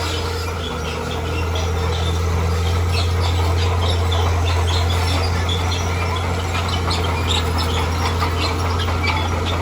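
Heavy diesel engine of an earthmoving machine running steadily under load, growing a little louder about a second in, with many short high-pitched chirps over it.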